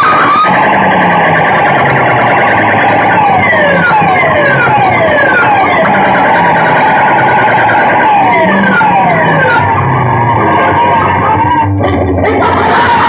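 A DJ sound system playing music at very high volume: a warbling, siren-like tone, then a run of repeated falling-pitch sweeps over a low, pulsing bass beat, with the warble returning near the end.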